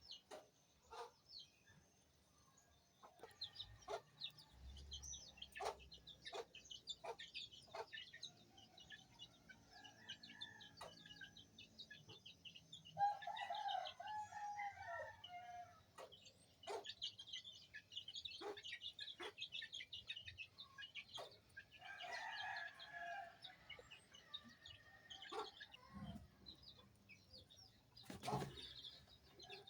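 Chickens clucking, with a longer crowing call about 13 seconds in and another about 22 seconds in, among scattered sharp ticks. Faint throughout.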